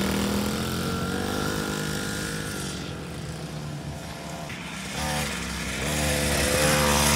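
Pit bike engine running and revving, fading a little in the middle and growing louder again from about five seconds in.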